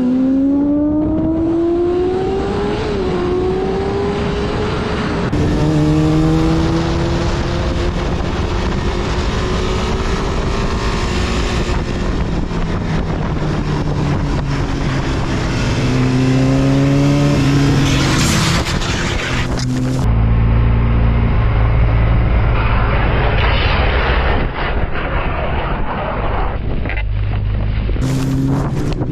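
Motorcycle engines running and revving in road traffic, the pitch rising and falling with the throttle. The sound changes abruptly at cuts about 5, 20 and 28 seconds in.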